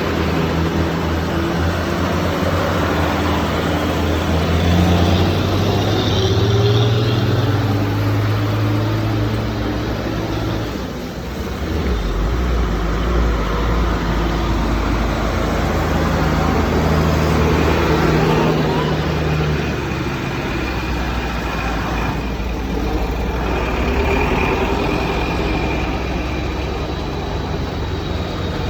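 On-the-road sound of a TVS Ntorq 125 cc single-cylinder scooter being ridden: the engine running under wind and road noise, its pitch shifting several times as the speed changes, with other traffic mixed in.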